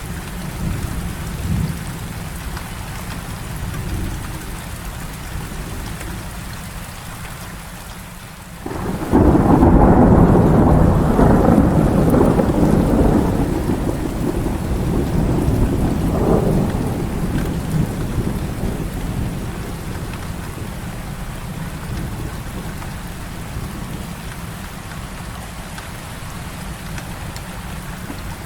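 Heavy rain falling steadily. About nine seconds in a thunderclap breaks and rolls on as a deep rumble, swelling once more, then fades back under the rain after about ten seconds.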